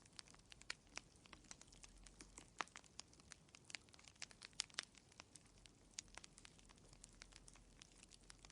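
Wood fire crackling in a fireplace: faint, irregular sharp pops and snaps, several a second, over a soft low hiss.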